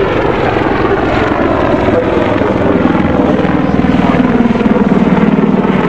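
Army Air Corps Apache AH1 attack helicopter in display flight, its rotors beating rapidly over the engine noise. A low hum grows louder from about halfway through.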